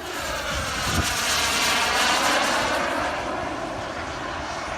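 Turbine-powered RC model jet making a low pass: the turbine's rushing whine swells to a peak about two seconds in, then fades as it flies away.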